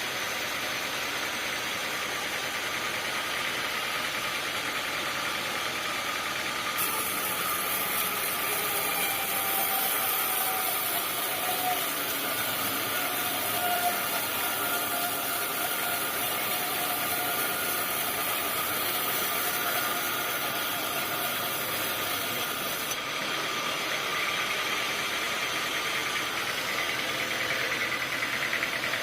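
Sawmill machinery running steadily. A high hiss comes in about a quarter of the way through and stops about three quarters of the way through.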